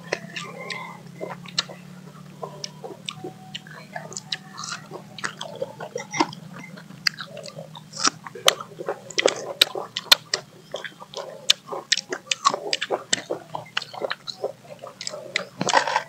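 People biting and chewing mango slices: many short crunches and wet mouth smacks, coming thicker in the second half.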